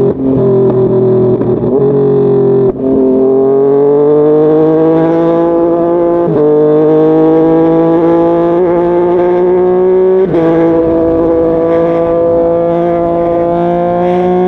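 Yamaha MT-09's 847 cc inline-three engine under acceleration while riding, its pitch climbing steadily and dropping briefly at each upshift, three gear changes in all.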